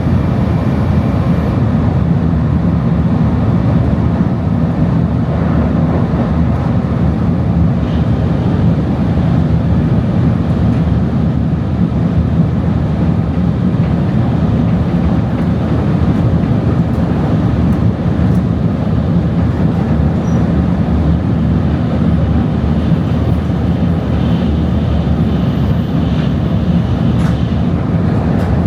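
Steady rumble of a Tokaido Shinkansen train running at speed, heard inside the passenger car.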